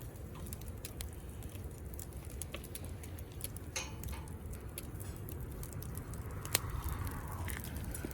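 Campfire burning, with scattered sharp crackles and pops over a low steady rumble.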